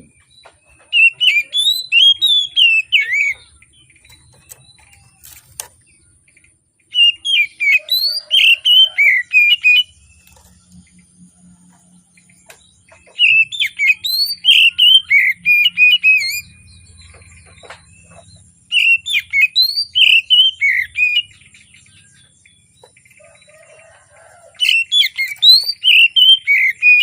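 Oriental magpie-robin (kacer) singing: five bursts of rapid, gliding whistled phrases, each lasting two to three seconds, with pauses of a few seconds between them.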